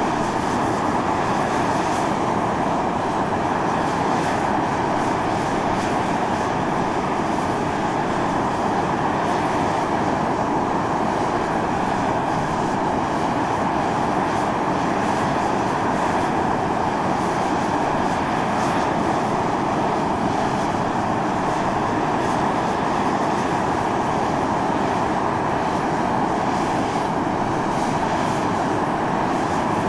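Volcanic fumarole venting: gas and steam rush out of the vent in a steady, unbroken hiss.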